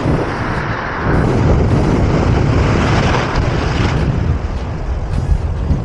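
Ocean surf breaking and rushing around the wader, with wind buffeting the microphone in a loud, deep rumble that swells about a second in.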